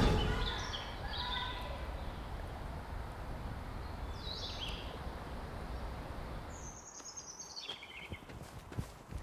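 Woodland birds singing: a few short high chirping phrases, then a run of notes stepping down in pitch near the end, over a faint low rumble. The tail of a boom dies away in the first second, and a few faint clicks come near the end.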